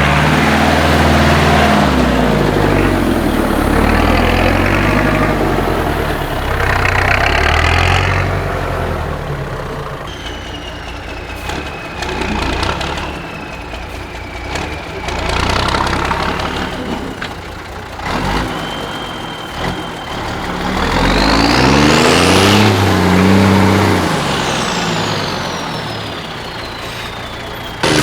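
Off-road trial truck diesel engines revving hard in spells, with quieter running between, and a thin high whine that rises and falls.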